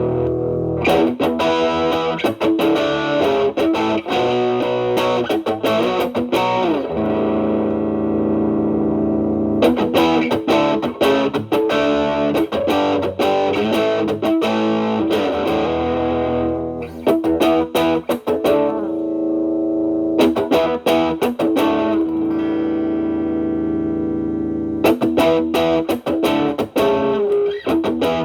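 Electric guitar, a Stratocaster, played through an Xotic BB Plus preamp with both channels stacked into a Marshall Valvestate amp: overdriven strummed chords and short picked phrases, with several chords left to ring out. The pedal's Channel B gain is set to maximum partway through, and later the guitar's volume is rolled back to clean up the drive.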